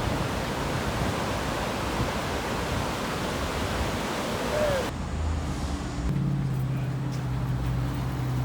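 Steady rush of surf and wind noise. About five seconds in it cuts off abruptly to a quieter low, steady hum.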